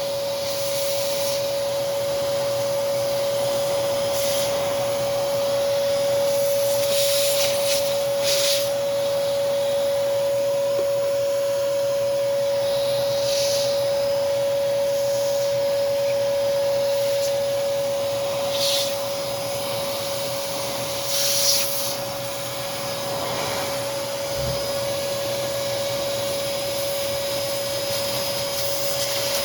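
Hoover Commercial PortaPower CH30000 vacuum cleaner running steadily: a constant motor whine over rushing air. Several short, sharper hisses come now and then.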